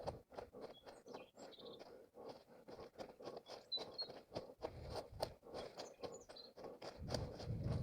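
Running footsteps on a forest floor, about three strides a second, with small birds chirping. A low rumble comes in near the end.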